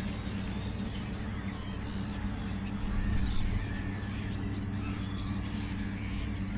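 A large flock of birds calling all at once, many harsh overlapping calls, over a steady low hum; the calls swell briefly about halfway through.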